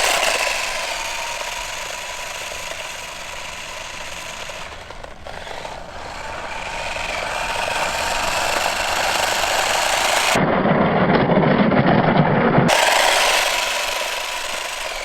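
Small RC drift car's electric motor running with a high whine and the hiss of its grip tires on the ground. It fades a little, then grows louder again about halfway through.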